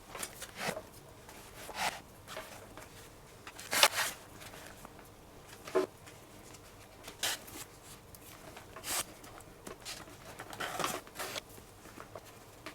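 Leather of a baseball glove being handled and laced, giving short, irregular rubbing and swishing sounds, the loudest about four seconds in.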